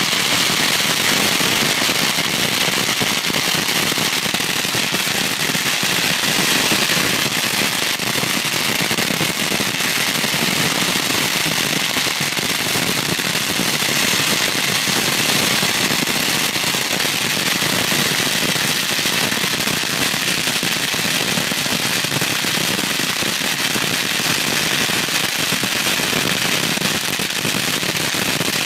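Strings of firecrackers going off in a dense, unbroken rattle of rapid bangs, steady in loudness.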